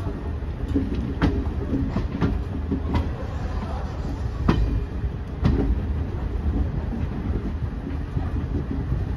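Passenger express train rolling along, a steady low rumble broken by irregular sharp clacks of the wheels over rail joints.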